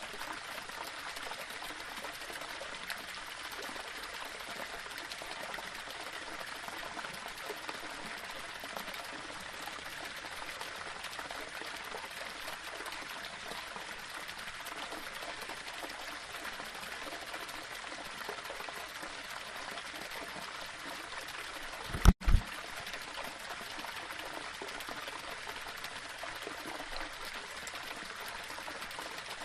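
Small waterfall: water running steadily over rocks, an even rushing splash. About two-thirds of the way through, the sound cuts out for an instant and two short low thumps, the loudest moment, break in.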